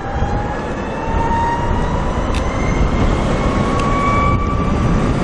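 LITO SORA electric motorcycle's motor whining, its pitch rising slowly as the bike gathers speed, under heavy wind rumble on the microphone.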